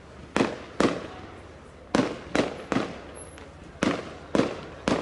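Fireworks bursting in quick, irregular succession: eight sharp bangs in five seconds, each trailing off in a short echo.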